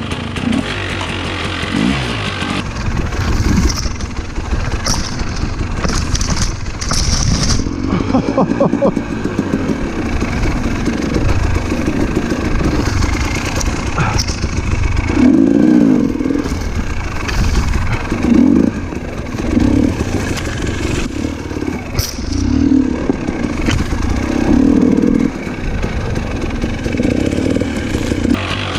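300cc two-stroke enduro dirt bike engine being ridden at low speed over rough trail, its revs rising and falling with repeated short bursts of throttle. A few brief scratchy sounds come early on.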